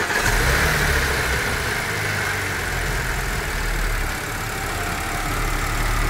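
Audi 3.0 TFSI supercharged V6 running at idle just after starting, on its first run after all its timing chains were replaced.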